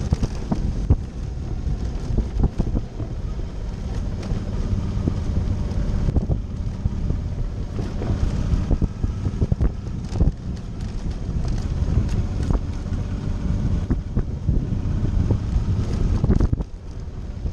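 Suzuki V-Strom's V-twin engine running steadily under wind buffeting on the microphone, with frequent short knocks and rattles from riding over a rough dirt trail.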